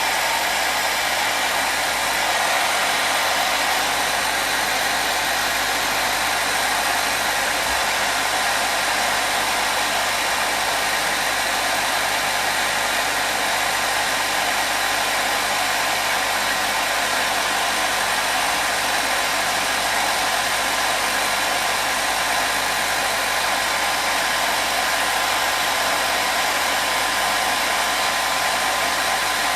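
Hair dryer running continuously: a steady, even rush of blown air with a faint motor whine.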